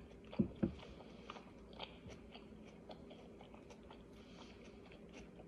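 A person chewing a mouthful of lettuce salad, with soft crunching and two louder mouth smacks about half a second in.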